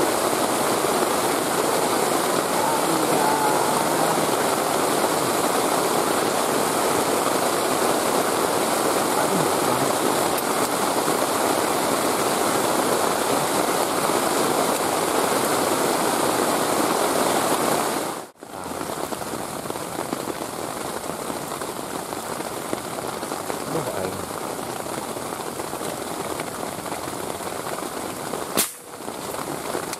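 Heavy rain falling in a steady hiss. About two-thirds of the way through it cuts out for an instant and carries on a little quieter, and a single sharp click comes near the end.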